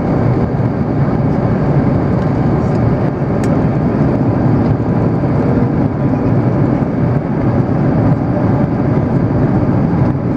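Airbus A330 airliner in flight, heard from the cabin: a steady, even rush of engine and airflow noise, deep and unchanging.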